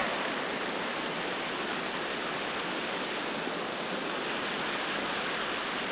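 Steady rushing of river water over rocks, an even hiss-like flow that does not change.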